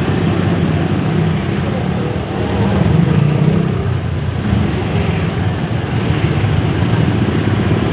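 A vehicle engine running steadily under way, with road and traffic noise.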